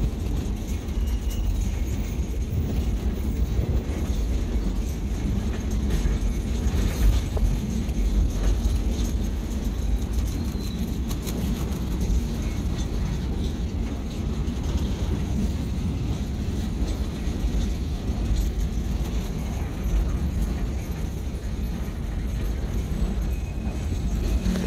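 Passenger train running on the rails, heard from aboard: a steady low rumble with scattered clicks.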